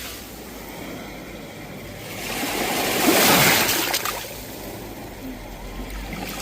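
Sea waves breaking on a shore: one wave builds and crashes about halfway through, then washes back, and the next begins to rise near the end.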